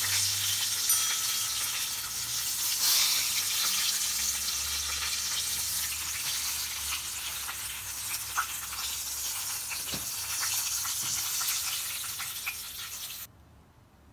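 Batter-coated mushroom patties sizzling in hot vegetable oil in a pan, with a few light knocks of a wooden spatula as they are lifted out. The sizzle cuts off suddenly near the end.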